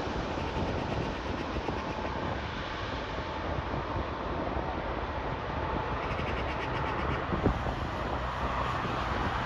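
Airbus A330 jet engines making a steady, noisy roar as the airliner lands, mixed with wind buffeting the microphone. A single short knock comes about seven and a half seconds in.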